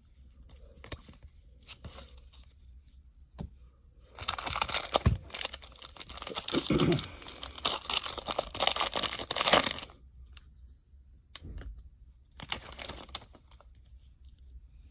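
A foil trading-card pack wrapper being torn open and crinkled. It runs for several seconds in the middle, then crinkles briefly once more. Faint rustling of cards comes before and after.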